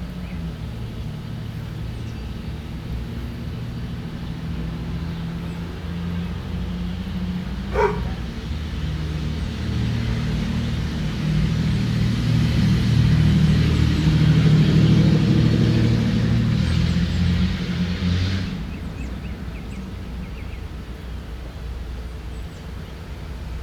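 A motor engine hums steadily in the background. It grows louder through the middle and drops off suddenly about two-thirds of the way in. A brief sharp squeak comes about a third of the way in.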